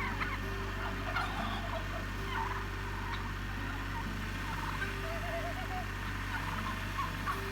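Domestic turkeys calling and gobbling again and again, with a warbling call about five seconds in, over a steady low hum.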